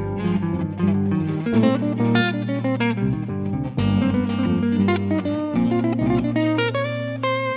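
Guitar playing quick single-note improvised lines over a backing loop with bass, in a G minor sound.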